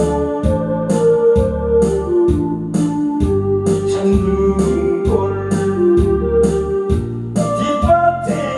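Instrumental break of a Korean trot backing track: an electronic organ or keyboard melody with held notes over bass and a steady drum beat of about two strokes a second.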